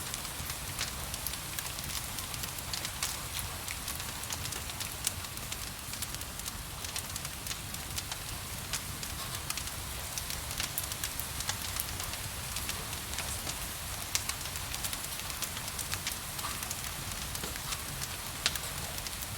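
Fireplace fire crackling with frequent sharp pops, over a steady hiss of gentle rain and a low rumble.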